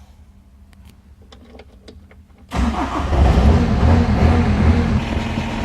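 Bobcat skid-steer's glow-plug diesel engine starting: a few faint clicks, then about two and a half seconds in the engine catches all at once and runs loudly, settling a little toward the end.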